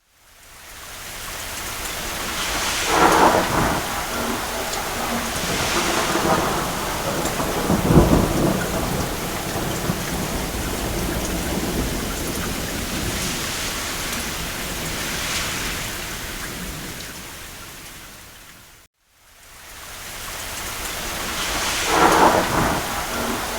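Steady heavy rain with thunder rolling through it several times, the deepest rumble about eight seconds in. The rain fades out to a brief silence near the end and fades back in with another roll of thunder.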